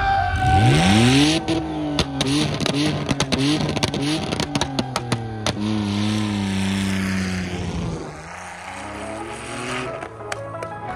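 Car engine revving hard: the pitch climbs steeply in the first second or so, then bounces up and down over and over with sharp cracks and a high hiss. It holds a steadier, slowly falling note and drops away about eight seconds in.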